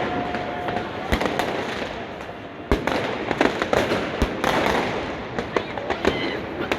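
Many fireworks and firecrackers going off at once, with irregular sharp bangs over a continuous crackle. There are heavier bangs a little under three seconds in and again past four seconds, and a thin whistle in the first second.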